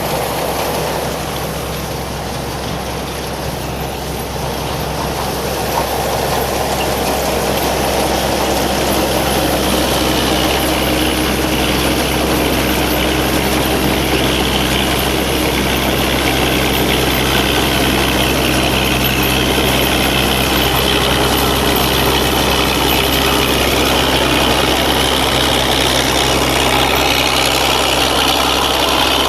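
Combine harvester's Isuzu 6M61 six-cylinder diesel running steadily under a wash of machinery noise, which grows a little louder and brighter from about ten seconds in.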